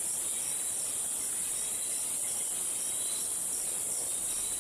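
Tropical rainforest insect chorus at dusk: a steady high-pitched trill, with a second insect chirping in regular pulses about three times a second.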